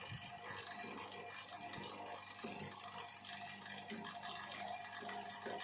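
Faint steady background hum with a few light clicks and taps, typical of multimeter probes being handled on metal terminals.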